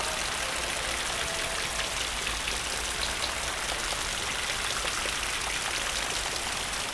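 Steady rain falling: an even hiss with scattered small drop impacts.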